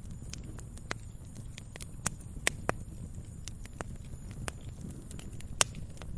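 Campfire crackling: irregular sharp pops and snaps of burning wood over a low steady rumble, with one louder pop near the end.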